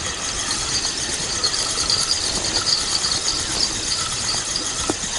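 Spinning reel being cranked with a steady mechanical ratcheting as a hooked fish is reeled in, with a steady high chirring behind it.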